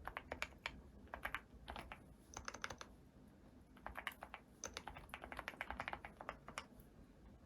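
Typing on a custom keyboard: quick runs of keystrokes broken by short pauses, with one longer gap about three seconds in and quieter keystrokes near the end.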